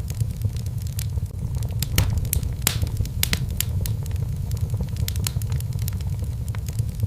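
Fire in a fireplace crackling, with frequent sharp pops over a steady low rumble.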